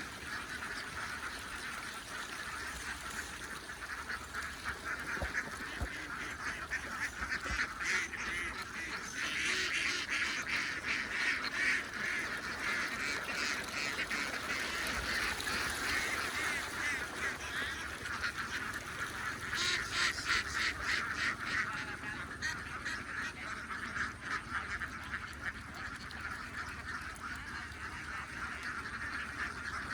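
A large flock of domestic ducks quacking all at once, a dense, unbroken chorus of overlapping calls that swells about a third of the way in and again about two-thirds in.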